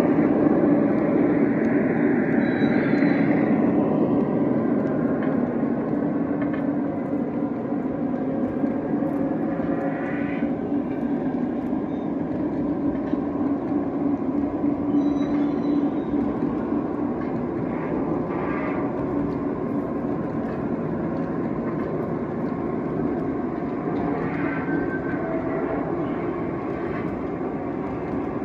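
O-scale model train running around the layout: a steady rumble of the locomotive and the cars' wheels on the track. Brief higher squeals come every few seconds.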